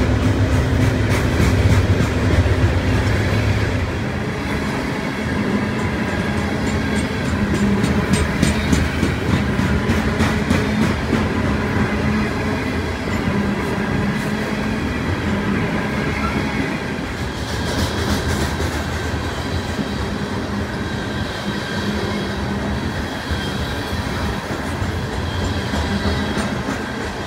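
Covered hopper cars of a freight train rolling past, a steady roar of steel wheels on rail with bursts of clicking as the trucks cross rail joints. The diesel locomotive's deep engine rumble fades over the first few seconds.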